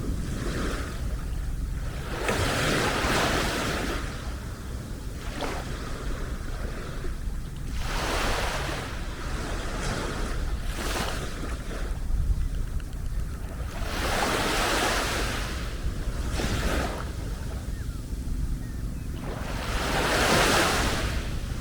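Small sea waves washing onto the beach, a surge of hiss every few seconds, the biggest two in the second half. Steady wind rumble on the microphone underneath.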